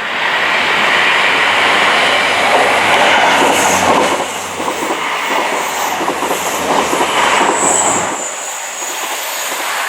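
Train passing close by on the main line, its wheels clattering over the rail joints, with a brief high squeal near the end. The clatter and rumble drop away about eight seconds in.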